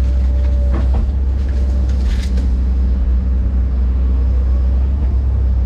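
Diesel engine of a heavy earthmoving machine running steadily under work, a constant low drone, with a couple of brief knocks about one and two seconds in.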